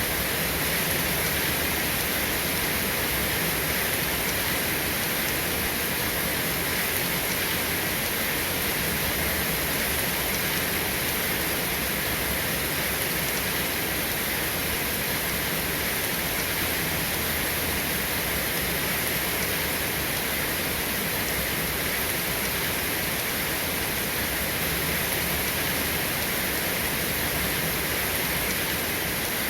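Steady, dense rainfall: an unbroken even hiss with no thunder.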